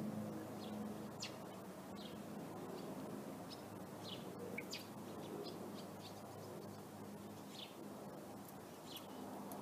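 Birds chirping: about a dozen short, high chirps scattered irregularly, over a faint steady low hum.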